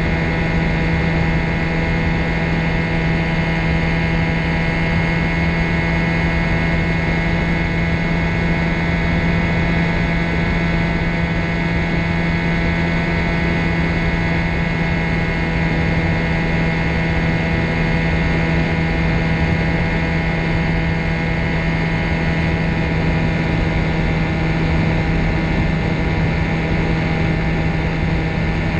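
Ultralight trike's propeller engine running at a steady speed, a constant drone with rough low rumble underneath.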